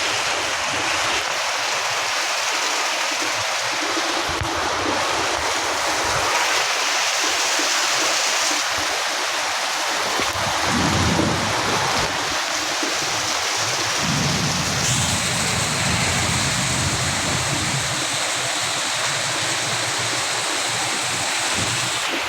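Heavy downpour: rain falling hard and steadily, with low rumbles coming through about ten seconds in and again a few seconds later.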